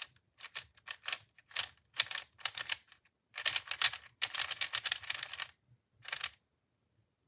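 MoYu V5 UV-coated speedcube being turned in quick runs of clicking plastic turns, stopping about six seconds in.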